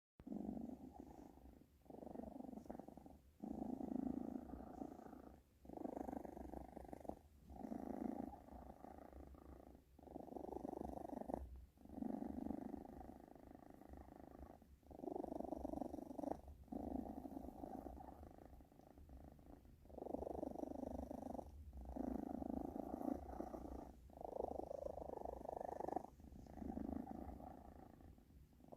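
British shorthair cat purring close up, the purr coming in stretches of a second or two with short breaks between, swelling and easing with each breath.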